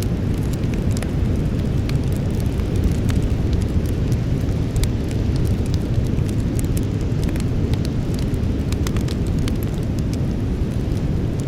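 Campfire burning: frequent, irregular sharp crackles and pops of the burning wood over a steady low rumble.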